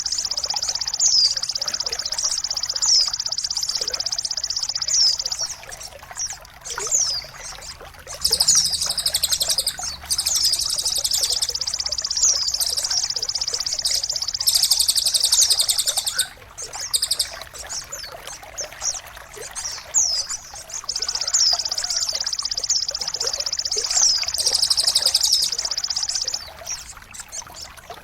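A songbird singing three long phrases of rapid, high trilling with quick downward-sweeping notes, each several seconds long with short breaks between, over a steady trickle of water.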